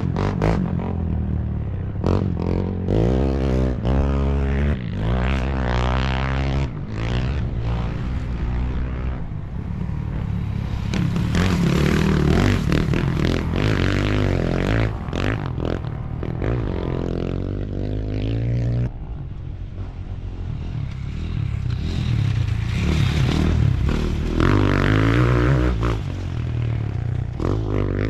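Off-road motorcycle and quad engines revving up and down as the machines pass through a curve, the pitch rising and falling again and again.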